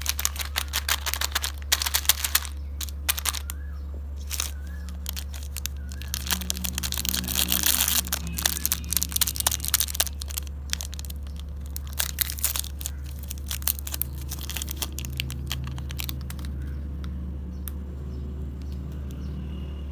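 Plastic candy and snack wrappers crinkling and tearing open in clusters of sharp crackles, busiest in the middle and thinning out toward the end, over a steady low hum.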